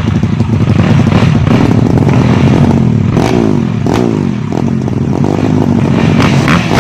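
Grasstrack motorcycle engine being ridden hard, its pitch dropping and rising repeatedly as the throttle is rolled off and opened again, with a couple of sharp knocks near the middle.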